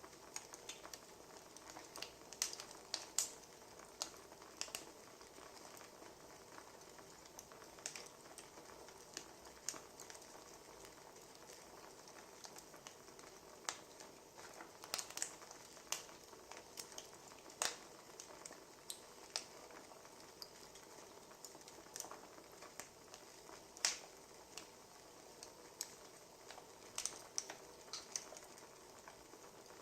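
Wood fire crackling: irregular sharp pops and snaps, a few a second, over a soft steady hiss.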